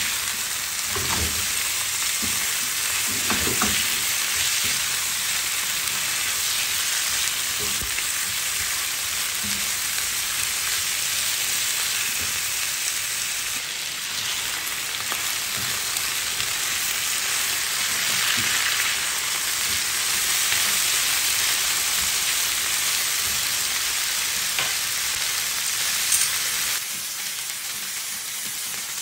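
Chicken pieces frying in hot oil in a nonstick pan, a steady sizzle, with a few soft knocks of a spatula turning the pieces in the first few seconds. The sizzle gets a little quieter near the end.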